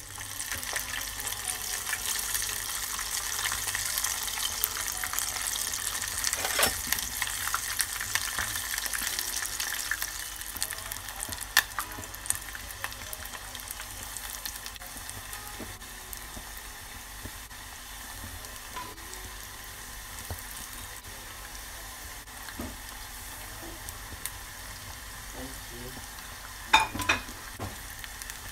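Flour-breaded chicken feet skin deep-frying in hot oil in a pot: a dense crackling sizzle. It is loudest for the first ten seconds or so, then settles lower, with a few sharp clicks and a short cluster of them near the end.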